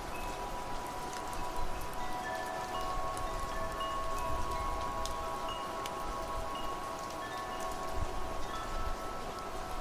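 Wind chimes ringing, several tones struck at different times and overlapping as they ring on, over a steady hiss.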